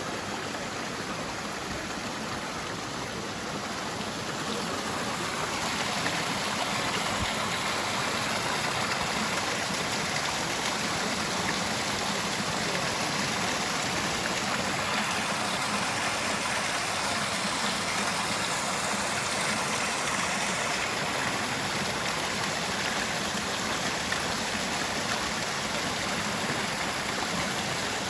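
Water of a mountain valley stream running steadily, an even rushing flow.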